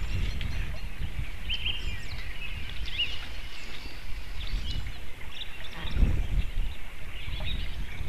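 Small birds chirping and calling with short quick notes, over a steady low rumble that swells about six seconds in.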